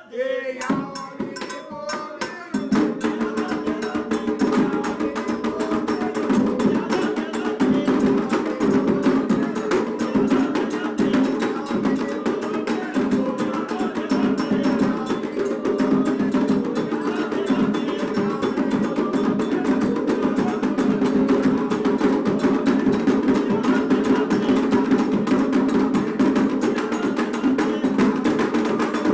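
Afro-Brazilian hand drumming on atabaques with a struck bell or wood-block part, playing a fast, steady rhythm for Oxum. It grows fuller and louder about two and a half seconds in.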